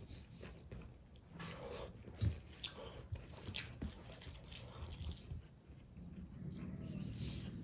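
Close-miked chewing and biting: a person eating, with short crunchy bites and wet mouth clicks scattered through.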